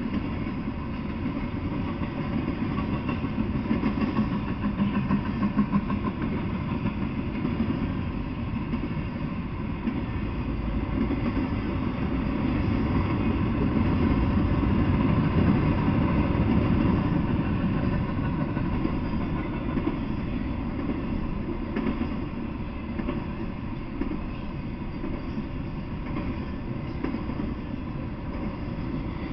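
Intermodal freight train, semi-trailers on flatcars, rolling past on the rails: a steady low rumble of wheels and cars that grows somewhat louder about halfway through, then eases.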